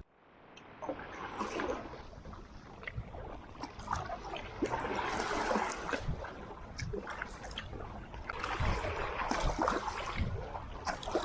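Water splashing and trickling around a kayak on the open bay, swelling in surges every few seconds with small slaps and drips. It fades in over the first second.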